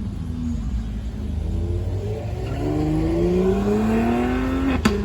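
Car engine accelerating hard, its pitch climbing steadily for a few seconds. Near the end there is a sharp pop and the pitch drops suddenly as it shifts up, then it starts climbing again.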